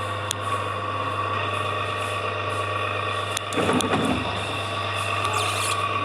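Coin-operated kiddie ride's electric motor running, a steady hum with a higher whine over it. There is a brief louder jumble about two-thirds of the way through.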